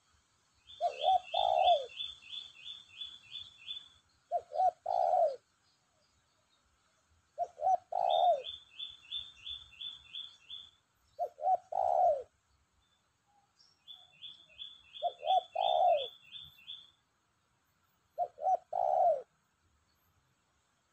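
Spotted dove cooing its short phrase of a few notes over and over, about every three and a half seconds, six times. A second, smaller bird gives quick runs of high chirps, about three notes a second, three times alongside the coos.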